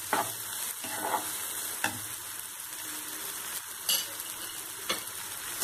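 Onions and spice masala sizzling in oil in a nonstick frying pan while being stirred with a silicone spatula, with a few sharp taps and scrapes of the spatula against the pan. The masala is fully fried, the oil separating from it.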